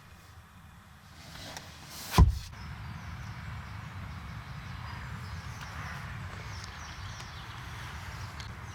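A car door shuts with one loud, solid thump about two seconds in, followed by a steady low rumble.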